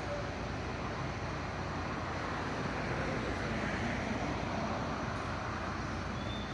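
Steady road traffic noise on a city street, swelling slightly about three seconds in.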